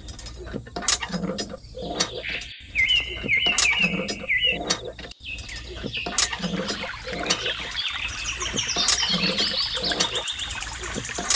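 Birds chirping, with a regular soft stroke about once a second as the lever of a miniature handmade hand pump is worked up and down; near the end water begins to trickle from its spout into the pond.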